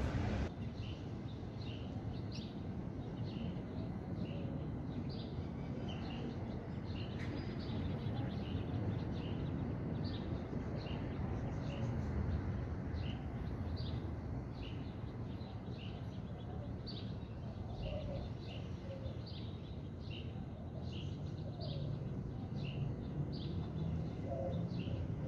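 Birds chirping, short high notes repeated over and over, over a steady low background rumble.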